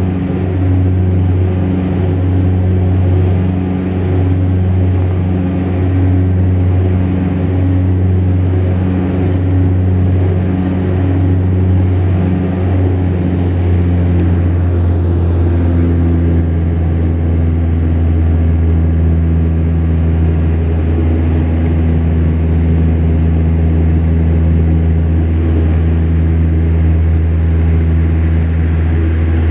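Cabin drone of a Saab 340B's twin General Electric CT7 turboprops and propellers in flight: a loud, steady low hum with a throb about once a second that smooths out about halfway through as the tone drops slightly lower.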